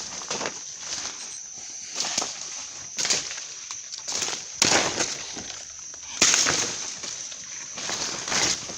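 Footsteps pushing through jungle undergrowth, a crunch of leaf litter and brush roughly every second, over a steady high-pitched hum.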